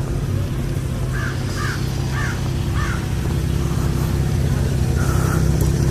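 Car engine idling steadily while a bird caws four times in quick succession, about half a second apart, starting about a second in.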